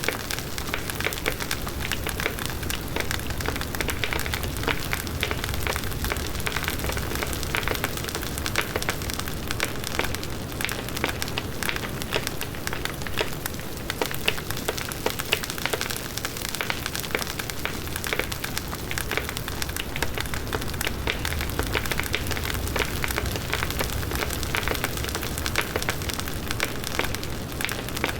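Large wood bonfire burning: a dense, steady crackle of many small pops over the low rush of the flames.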